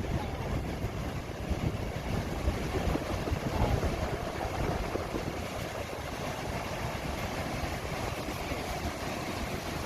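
Wind buffeting the microphone in irregular low gusts over a steady rushing noise, the gusts easing about halfway through.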